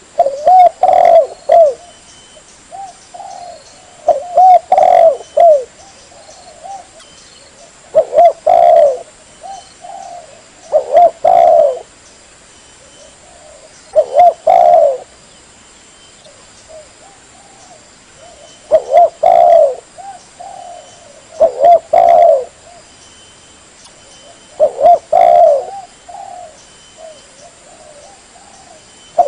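Spotted dove (tekukur) cooing: loud, repeated coo phrases, a new one every three to four seconds. This is a lure call played to draw wild spotted doves in.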